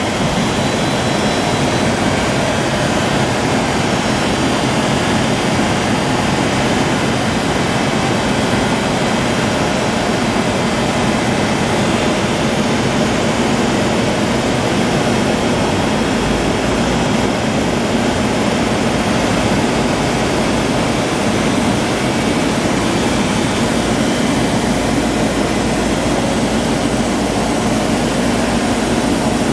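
Studer S40 CNC cylindrical grinder running under power, a steady loud mechanical whirr and rush of noise that holds at one level.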